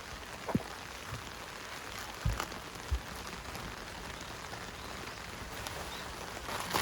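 Steady rain falling, with a few louder single drops tapping close by.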